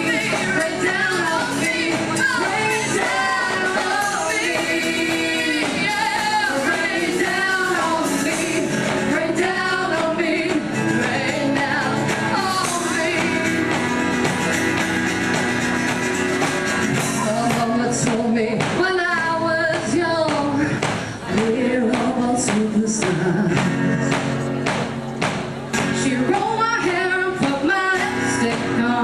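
A live band performing an original song with singing. About two-thirds of the way through, a steady beat of sharp hits comes in under the voices.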